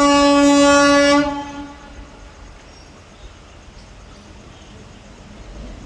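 Indian Railways locomotive horn giving one loud blast of about a second, a single pitched note that then fades away, followed by faint steady rumble.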